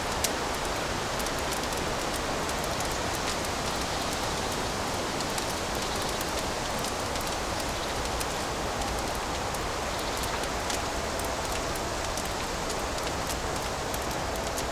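Fireplace fire burning with a steady hiss and many small scattered crackles, one sharper pop just after the start.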